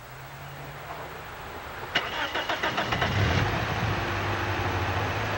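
A car's engine is cranked by its starter about two seconds in, with rapid even pulses. It catches after a second or so and settles into a steady idle.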